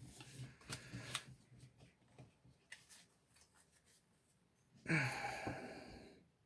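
Trading cards and pack wrapper being handled: small scattered clicks and rustles, then a louder rustling burst of about a second, starting about five seconds in.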